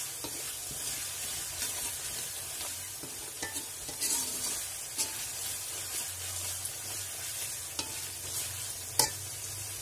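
Onions and spice paste sizzling in hot oil in a metal wok while a slotted metal spatula stirs them, scraping and clicking against the pan now and then, with one sharper knock near the end. The spices are being fried until their raw flavour cooks off.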